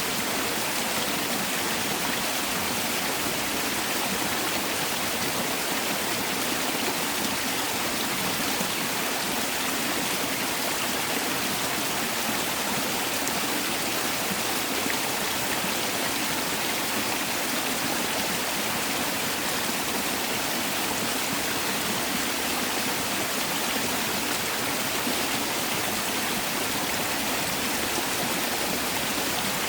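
Mountain valley stream rushing over rocks, a steady, even rush of water with no breaks.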